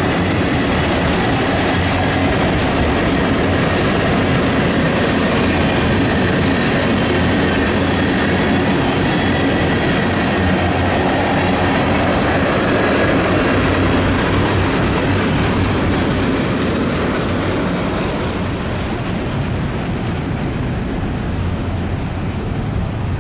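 Freight train cars rolling past, a steady loud rumble of wheels on rail with faint high ringing tones, easing off slightly over the last few seconds.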